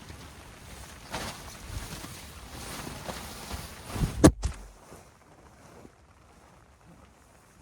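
Rustling and scraping from handling wet camping gear, with one sharp, loud knock a little past four seconds in; after it only faint background noise remains.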